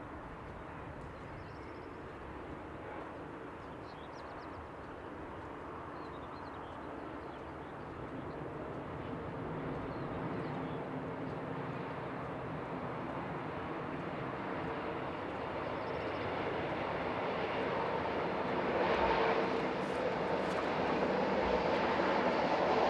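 A train approaching, its running noise and a steady hum growing gradually louder throughout.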